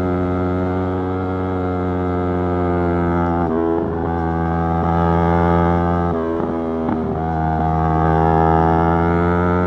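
Yamaha YZF-R3's parallel-twin engine running under way at a fairly steady pitch, with brief dips in the engine note about three and a half seconds in and again around six to seven seconds in.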